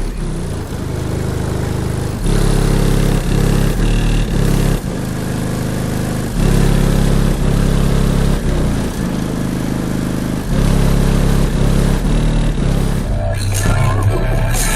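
Bass-heavy music played at high volume through a car audio system of six 12-inch subwoofers in a band-pass box. The deep bass notes shift to a new pitch every second or few.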